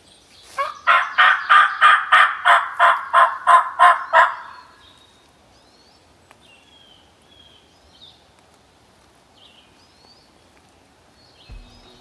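Wild turkey calling: a loud run of about a dozen evenly spaced notes over some four seconds. Faint songbird chirps follow.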